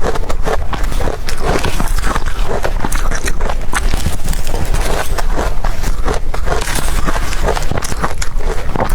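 Blended ice being bitten and chewed close to the microphone: a dense, continuous run of crisp crunches.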